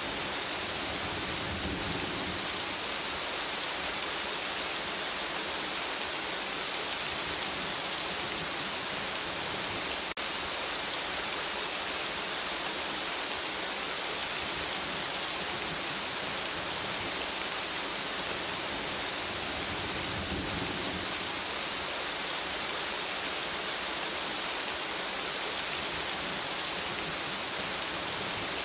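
Steady rain falling on forest foliage, an even hiss of countless drops. Twice it swells with a brief low rumble: about two seconds in, and again around twenty seconds.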